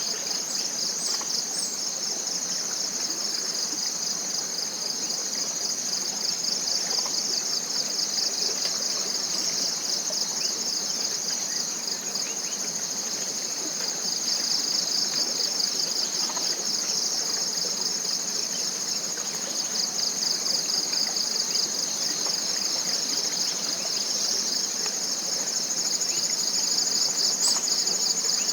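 Chorus of tropical forest insects: a steady, high-pitched shrilling trill made of fast, even pulses, over a faint background hiss.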